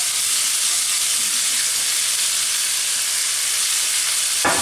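Prawns, garlic and chilli sizzling steadily in hot olive oil in a non-stick wok as chopped onion is added. There is a brief knock near the end.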